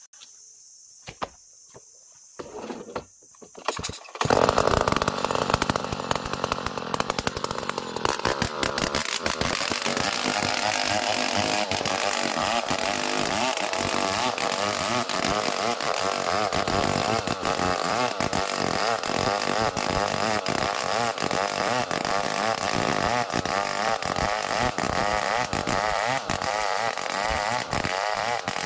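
A few short knocks, then about four seconds in a chainsaw starts up loud and runs steadily at high revs, its pitch wavering as it saws through a small ulin (Borneo ironwood) log.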